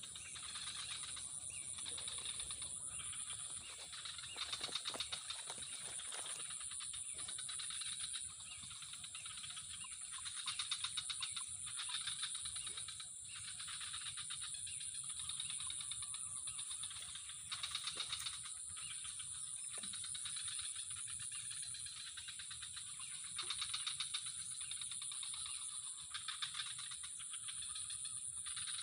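A dense chorus of calling animals: a steady high-pitched trilling with rapid pulsing underneath that swells and fades every few seconds, with a few faint clicks.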